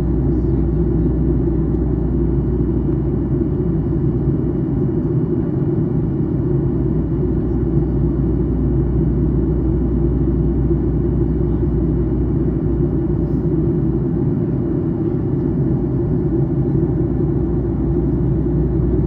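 Boeing 737-800 cabin noise in flight during the descent: a steady, even rumble of airflow and the CFM56-7B engines, with a faint high steady tone above it.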